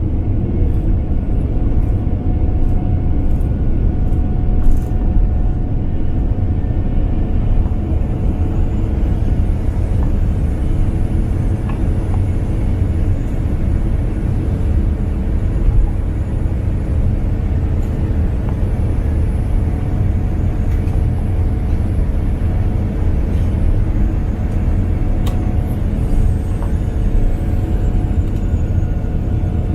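Boeing 787-10 turbofan jet engines running at takeoff power: a heavy, steady low rumble with a faint steady whine over it.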